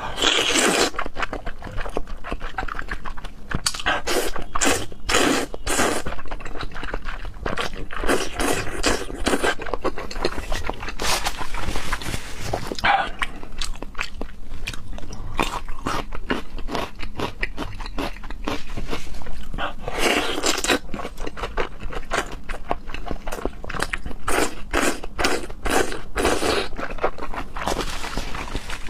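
Close-miked eating of beef bone marrow noodles: wet chewing and mouth clicks, broken by several longer slurps.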